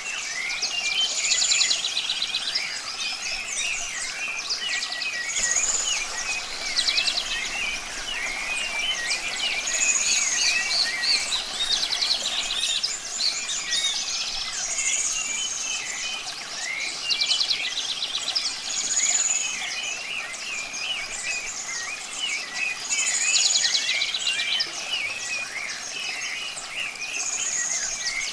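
A chorus of songbirds calling and chirping, with one song phrase (a high arched note and a fast trill) repeating about every four seconds, over a steady hiss of running water.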